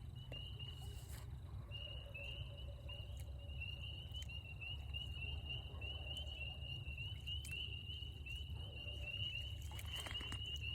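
A chorus of spring peepers: many short, high-pitched peeps repeating rapidly and overlapping, starting about a second and a half in, over a steady low rumble.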